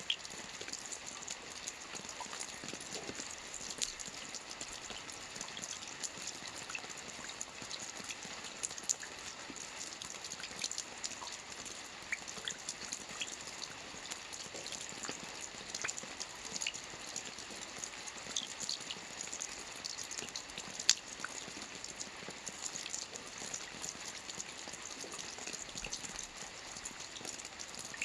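Rain falling on a lake's water surface: a steady hiss with many scattered distinct drops and ticks, a sharper drop about 21 seconds in.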